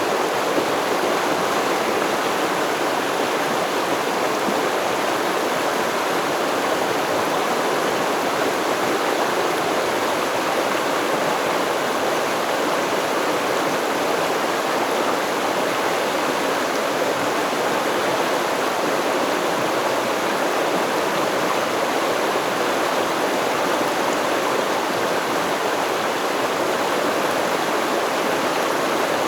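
Water of a river stream flowing over its bed, a steady babbling rush with no breaks.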